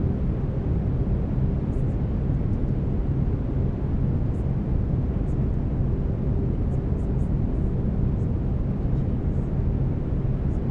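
Brown noise: a steady, even, low rumbling hiss with no change, with steady low tones underneath from the binaural beats.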